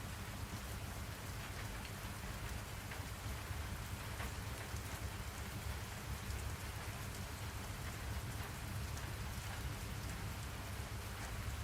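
Steady rain sounds, an even hiss of rainfall with faint scattered drop ticks and a constant low rumble underneath.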